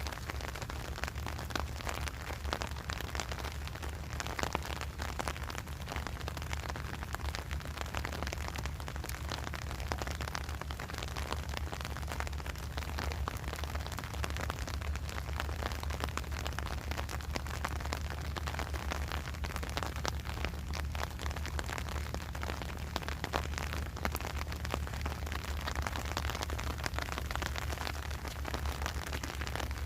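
Steady low rumble with dense crackling noise throughout: wind buffeting the microphone.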